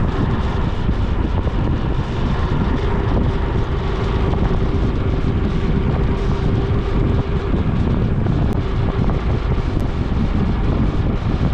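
Wind rushing over the microphone of a camera riding on a moving bike, with steady road and vehicle noise underneath. A faint steady hum rises out of it from about three seconds in until past halfway.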